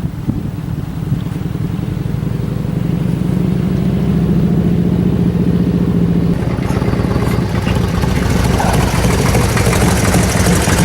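Harley-Davidson Electra Glide's V-twin engine running steadily, growing gradually louder, with more high clatter and hiss coming in about halfway through.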